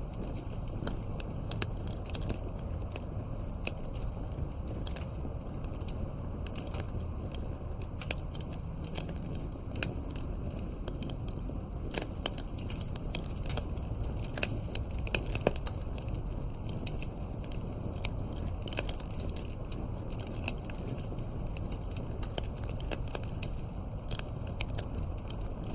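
Wood fire burning with a steady low rumble and many small irregular crackles and pops.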